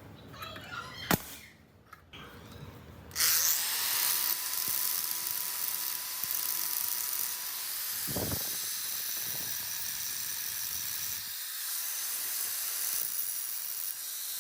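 A small high-speed power tool starts suddenly about three seconds in and runs steadily, a high hiss with a faint whine, after a few light clicks.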